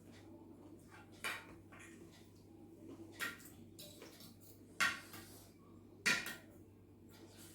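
Eating utensils clinking against dishes: four sharp clinks, the last two, about five and six seconds in, the loudest.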